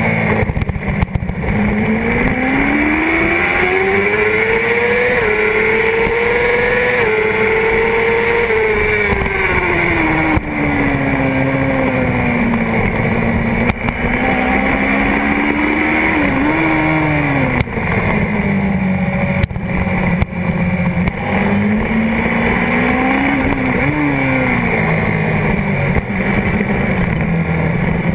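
Honda CBR600RR's inline-four engine on a race lap, heard from a tank-mounted camera, with wind and road noise underneath. The engine note climbs for several seconds under acceleration with a couple of small steps, falls off for a long stretch, then dips low and rises again, with two brief quick rises in pitch along the way.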